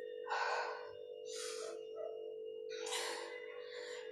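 A woman breathing hard during a set of deadlifts: four heavy, rasping breaths about a second apart.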